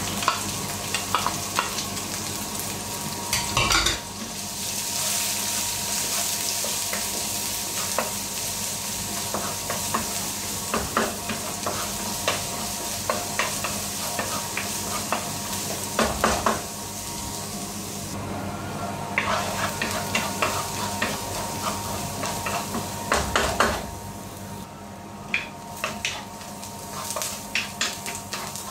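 Diced onion and garlic sizzling in oil in a nonstick frying pan, stirred with a wooden spatula that scrapes and taps against the pan, with a few louder bursts of stirring.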